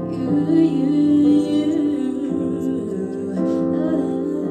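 Live acoustic song: a singer's wordless, wavering held vocal line over steady instrumental accompaniment.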